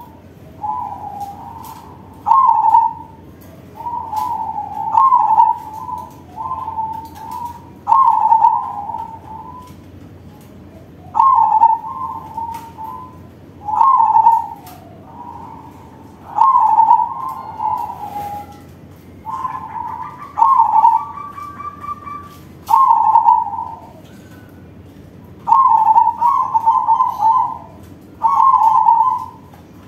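Crossbred zebra dove (perkutut crossing) cooing in its big-voiced song: short rolling coo phrases repeated every two to three seconds.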